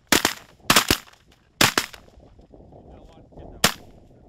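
A volley of shotgun blasts from several duck hunters firing at passing ducks: about five shots in quick succession over the first two seconds, then a single last shot near the end.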